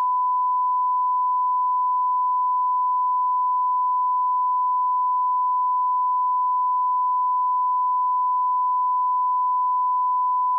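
Continuous 1 kHz sine-wave line-up tone at −18 dBFS: one unbroken, unchanging pitch at a constant level, the reference tone of a broadcast audio alignment test.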